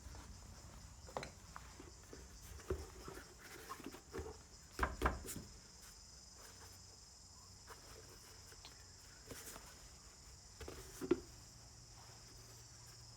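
Scattered light knocks and clicks of small trolley-wheel parts (tyre, tube, rim pieces) being handled on a workbench, with a couple of louder knocks about five seconds in and another near eleven seconds in. A steady high-pitched chirring sits underneath.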